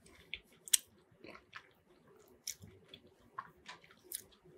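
A person chewing a mouthful of Reuben poutine (fries in gravy with cheese and pickles) close to the microphone: soft, irregular wet smacks and clicks.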